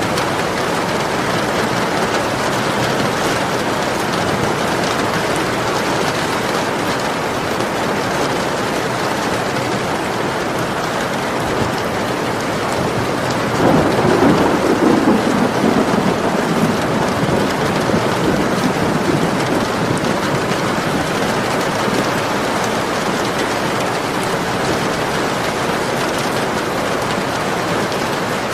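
Steady rain falling. About halfway through, a roll of thunder rumbles low for a few seconds, then fades back into the rain.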